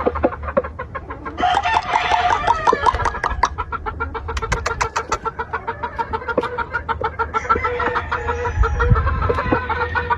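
Gamefowl roosters crowing, with one crow starting about a second and a half in and another in the second half, over chickens clucking throughout.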